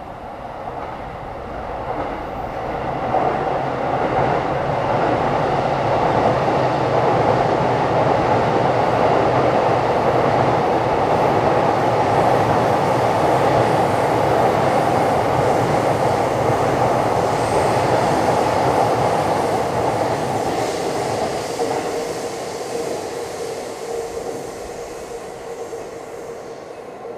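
A train running past on the tracks. Its rumble builds over the first few seconds, holds for about fifteen seconds, then fades near the end as a steady hum comes in.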